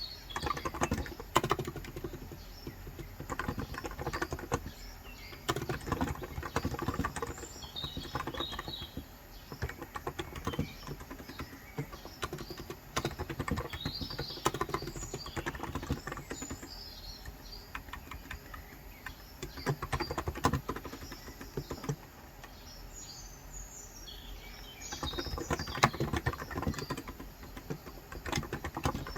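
Typing on a Cox Endeavour electrostatic capacitive (contactless) tenkeyless keyboard with 35 g switches: fast runs of keystrokes in bursts with short pauses. Birds chirp on and off behind it.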